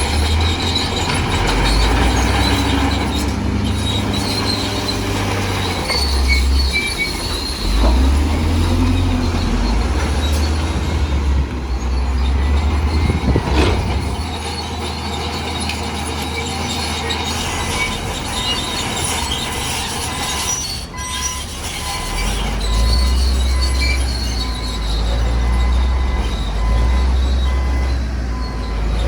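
Crawler bulldozer working: its diesel engine running and rising and falling under load, with the steel tracks squealing as they turn.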